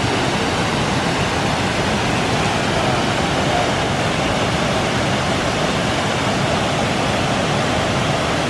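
Steady rushing of a waterfall, an even wash of water noise that does not change.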